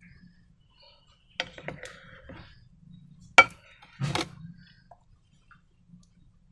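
Small hard clicks and taps from handling slime-making materials, with softer crackly handling noise between. There is a pair of clicks about a second and a half in, the loudest click at about three and a half seconds, and a short noisier rustle just after.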